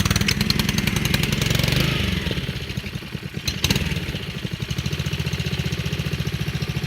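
Honda single-cylinder engine of a new Husqvarna lawn mower, restarted cold after stalling. It runs fast for the first couple of seconds, then drops to a steady, even idle. There is a sharp knock about three and a half seconds in.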